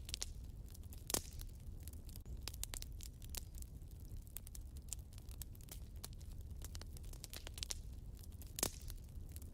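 Fire crackling in a fireplace: a dense, irregular patter of small crackles over a low rumble, with two louder pops, one about a second in and one near the end.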